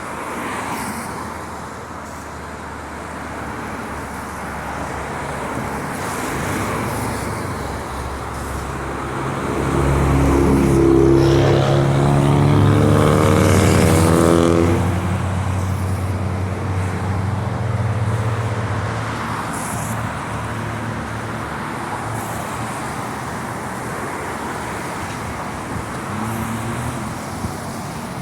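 Road traffic: cars driving past on a street. One vehicle passes close about ten seconds in, its engine note rising and loudest for a few seconds before fading back into the traffic noise.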